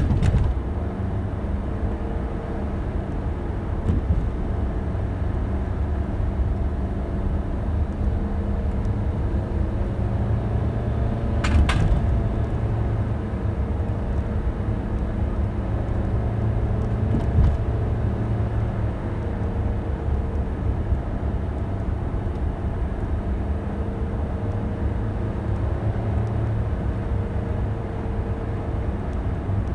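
Car driving, engine and tyre rumble heard from inside the cabin, steady throughout, with a few sharp knocks, the loudest about twelve seconds in.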